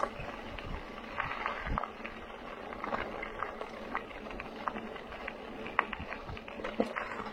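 Bicycle ridden over a rough dirt trail: steady tyre and trail noise with irregular clicks and rattles.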